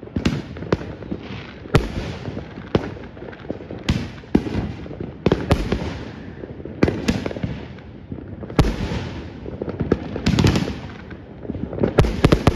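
Many fireworks exploding at irregular intervals, sharp bangs with rumbling echoes, growing denser into a cluster of bangs near the end.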